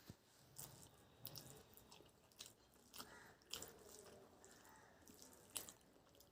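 Faint wet clicks and smacks of someone chewing a meal of rice and curry, a handful of soft ticks spread irregularly, the sharpest one near the end.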